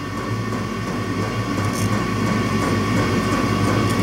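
Transformer-type soldering gun held on, giving a steady low electrical hum with a faint hiss while it heats a thick copper cable end.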